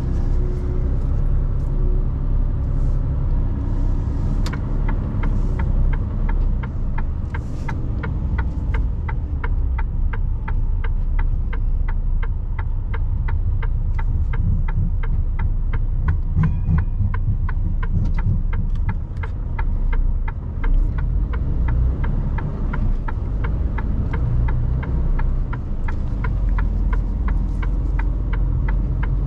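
Inside a Mercedes Actros truck cab on the move: steady low engine and road rumble, with an even ticking of a few clicks a second, likely the turn indicator, running through most of it.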